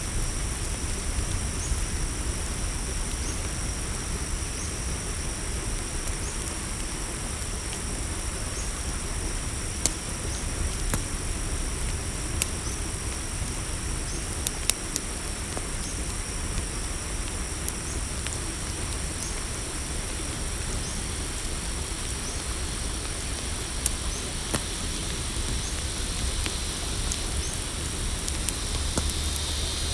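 Crickets chirping steadily in a night-forest ambience over a crackling campfire, with occasional sharp pops and crackles from the fire and a low steady rumble underneath.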